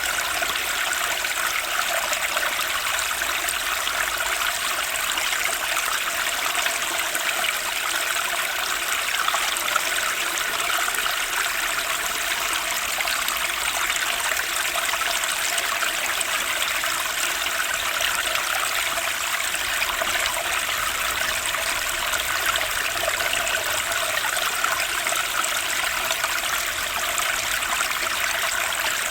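Turbulent spring stream rushing steadily over its bed.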